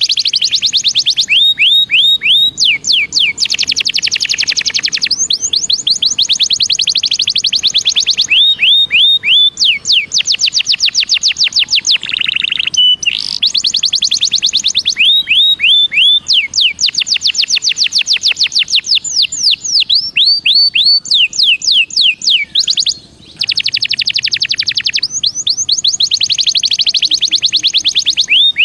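Belgian canary singing a continuous song of fast trills, each a rapid run of repeated high notes, switching to a new trill every second or two. It holds one steady whistled note briefly near the middle and breaks off for a moment about two-thirds of the way through.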